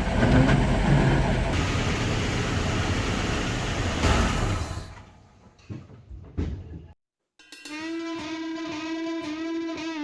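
A heavy vehicle's engine running loudly, fading out about five seconds in. After a moment of silence, music with a held note and instrument tones starts.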